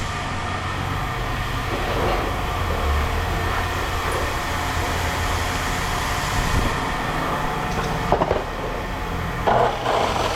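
Heavy engine idling steadily with a low hum, with a couple of short knocks about eight seconds in.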